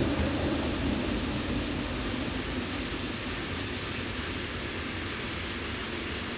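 Model train rolling along the layout track, a steady rumble and hiss that fades gradually over the first few seconds and then holds low.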